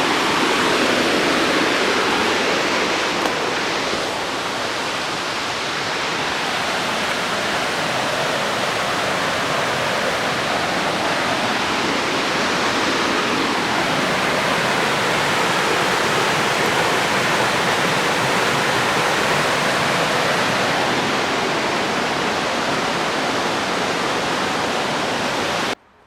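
Steady rush of running water, cutting off suddenly near the end.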